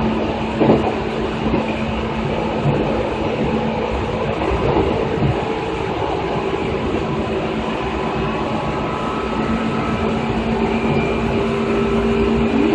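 2000 series train running: a steady rumble of wheels on the track under a steady hum, with a short knock about a second in.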